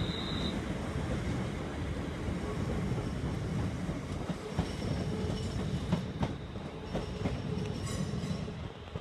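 A train running past, a steady low rumble with the wheels clicking over rail joints from about halfway on, and a faint high whine in the second half.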